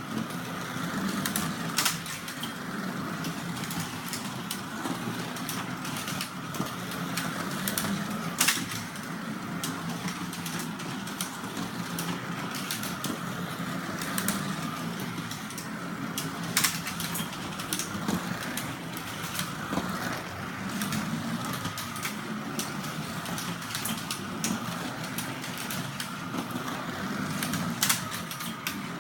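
Carrera slot cars running on a plastic track: the steady whir of their small electric motors and the rattle of the cars in the slot, with sharp clicks now and then.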